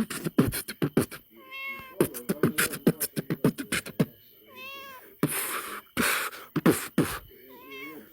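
Fast beatbox-style percussion of sharp clicks and kicks, with a cat meowing three times between the beats.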